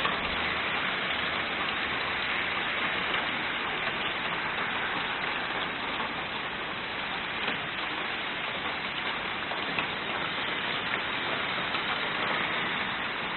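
Hail falling steadily in a storm: a dense, even hiss of countless small impacts on the ground and surfaces, with a few sharper ticks standing out, about halfway through and again a couple of seconds later.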